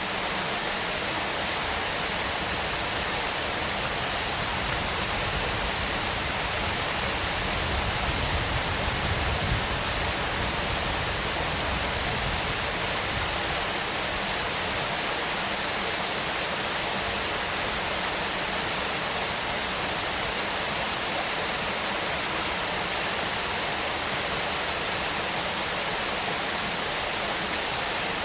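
Waterfall: a steady, even rush of falling water. A low rumble swells briefly about eight to ten seconds in.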